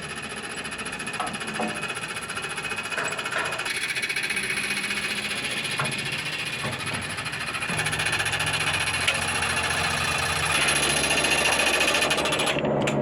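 Engine and hydraulic pump of a Skycon aerial work platform truck running steadily with a fast mechanical rattle, working the lift. The load rises in steps about eight and eleven seconds in.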